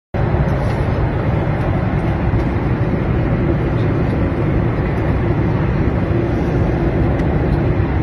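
Steady airliner cabin noise: the constant deep rumble and rush of a jet in flight, unchanging throughout.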